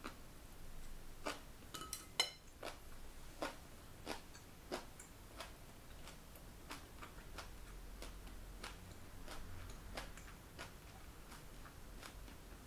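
Close-up crunching of bean sprouts being chewed, a soft crisp click roughly every two-thirds of a second. About two seconds in, the loudest sound is a short ringing clink, chopsticks set against the ceramic bowl.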